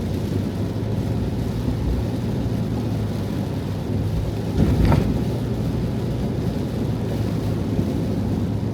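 Heavy rain drumming on the roof of a Toyota HiAce van, heard from inside, over a steady low hum, with a louder surge about five seconds in.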